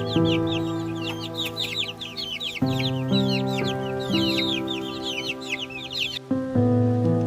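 Many birds chirping in a dense, rapid chatter of short high calls over background music of long held chords. The chirping cuts off suddenly about six seconds in, leaving the music and an even rain-like hiss.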